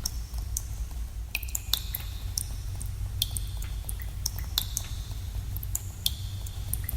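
Water drops falling at irregular moments in a cave, each a sharp plink, several leaving a short ringing tone that fades, over a steady low rumble.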